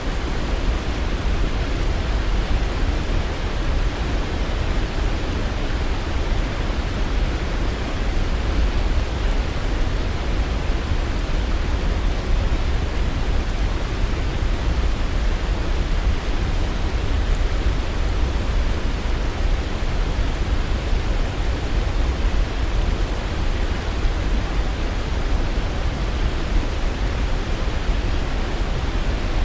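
Waterfall: falling water rushing in a steady, even noise, heaviest in the deep low end.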